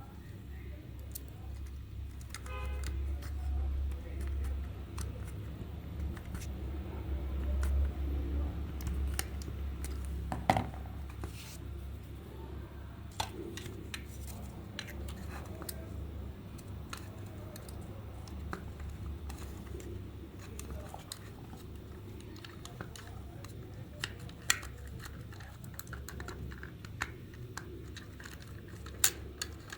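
Scattered small clicks and taps of small hard parts or tools being handled, the sharpest about ten seconds in and a few more near the end, over a steady low hum.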